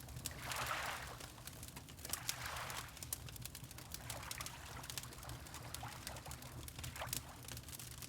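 Water lapping in soft, slow swells, with a fireplace crackling over it in scattered sharp pops and a steady low rumble underneath.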